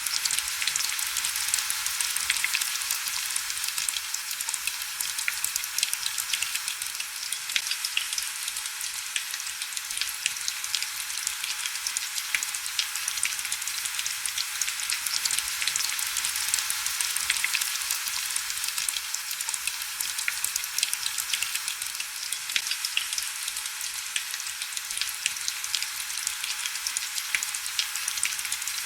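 Heavy rain falling steadily: a dense, crackling patter of countless small drop ticks, with almost no low rumble.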